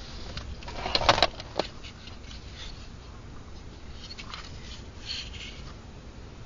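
A short cluster of clicks and rustling about a second in, one more click just after, then faint scratching: handling noise.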